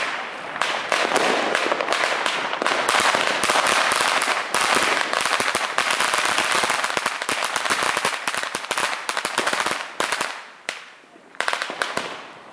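Firecrackers going off in a rapid, dense crackle of many small bangs. They thin out about ten seconds in, fall briefly quiet, then a few more pops come near the end.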